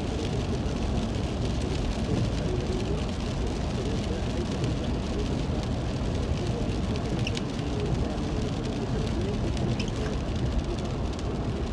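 Steady rain and road noise heard from inside a moving car, with a radio talk broadcast faint underneath.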